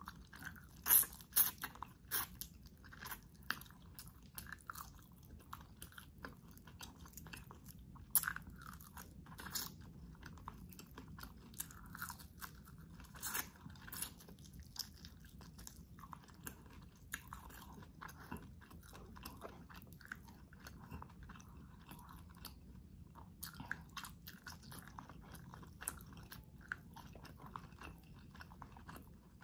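Close-miked chewing and biting of spicy garlic butter shrimp: a run of crisp crunches and wet mouth clicks, coming thick in the first half and sparser after.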